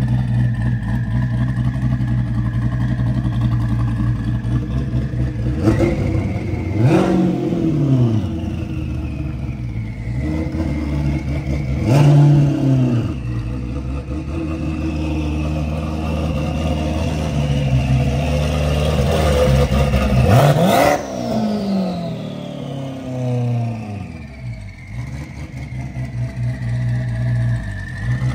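Twin-turbocharged V8 of a 1,400-horsepower C8 Corvette idling with a lumpy note, blipped three times, the last rev longest; a high turbo whistle climbs with each rev and falls away after it.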